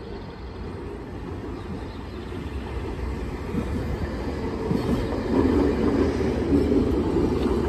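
Nankai 1000 series six-car electric train passing through the station without stopping, growing louder as it draws near and runs close by, loudest in the second half.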